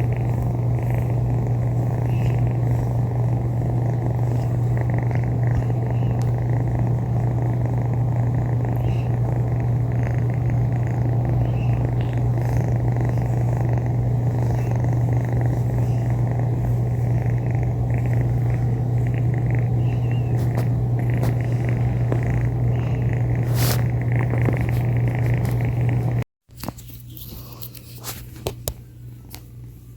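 A kitten purring, steady and loud and very close to the microphone. Near the end it drops to a much quieter purr with a few small clicks.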